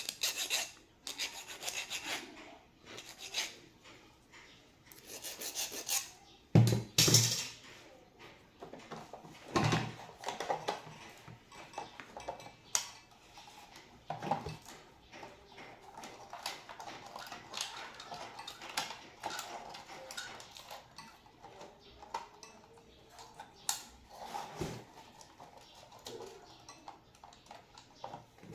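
Hand file scraping on the metal contacts of an impulse sealer in irregular strokes, cleaning off rust and dirt for a better electrical connection. The strokes are loudest in the first several seconds, then go on as lighter scrapes and small clicks.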